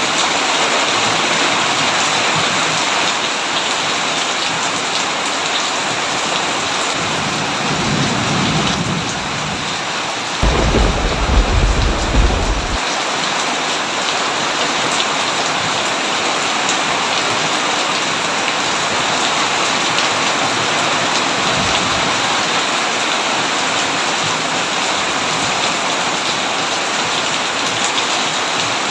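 Heavy rain falling steadily on a tin roof, a dense even hiss. About eight seconds in, a low roll of thunder builds into a deep, loud thunderclap lasting a couple of seconds, and a fainter rumble follows later.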